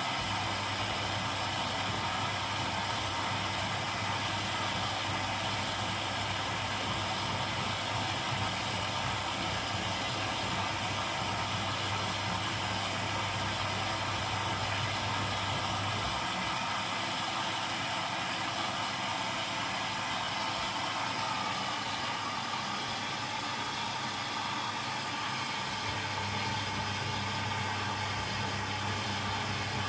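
Zanussi washing machine running steadily through a 90 °C boil wash. A low hum under it stops about halfway through and comes back near the end.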